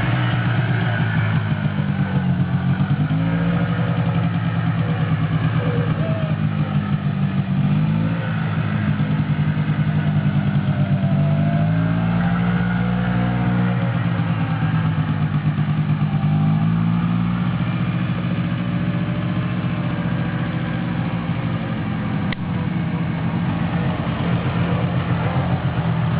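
Quad bike (ATV) engine running while being ridden, its pitch rising and falling again and again with the throttle.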